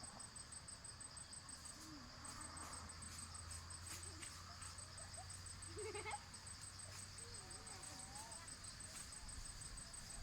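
Insects chirping in a steady chorus: a quick, evenly pulsed high chirp over a continuous high drone, with a few faint calls rising and falling now and then.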